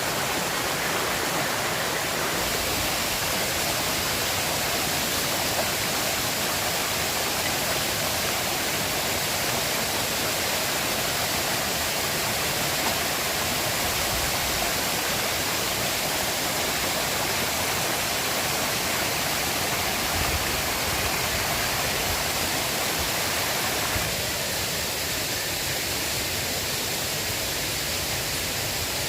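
River water rushing in a steady, unbroken wash, a little softer in the middle range near the end.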